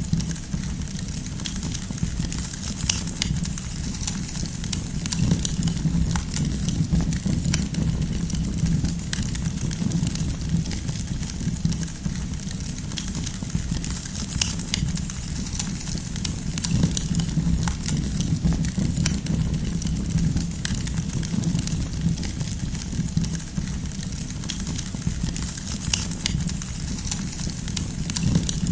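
Campfire of burning firewood crackling, with frequent sharp pops scattered irregularly over a steady low rumble.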